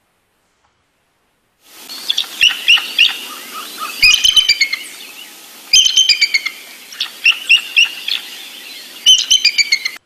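Recorded bald eagle call: five bouts of rapid, high-pitched chittering notes over a steady background hiss, beginning nearly two seconds in. It is a thin call that a lot of people think wimpy for so large a bird.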